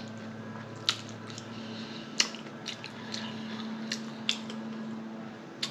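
Close-miked chewing, with wet mouth clicks and lip smacks scattered through, over a steady low hum.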